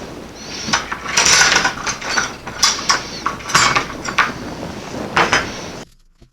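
Workbench handling noise: irregular clicks, clatters and scraping over a steady hiss, all stopping abruptly near the end.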